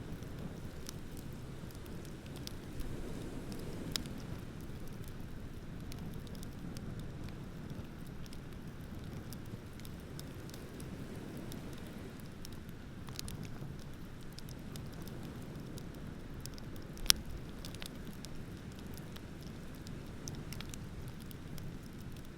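Wood bonfire crackling, with scattered sharp pops and one loud snap about three quarters of the way through, over a steady low rush of ocean waves.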